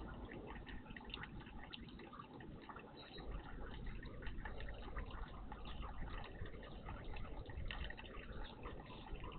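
Water trickling and splashing in a garden bird bath: a steady wash dotted with many small drips.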